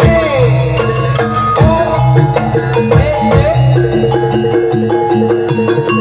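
Loud Javanese gamelan-style ensemble music: hand drums beat a steady pattern under repeated metallophone notes, and a wavering melodic line slides up and down over them in the first half.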